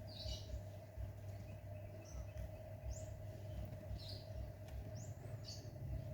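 A small bird chirping: short high chirps about once a second, some in a quick rising-and-falling arc, over a steady low hum.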